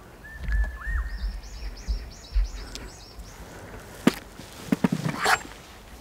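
Outdoor birdsong: a whistled note that dips and rises, then a quick run of about nine repeated high chirps. Near the end come a few sharp clicks and knocks.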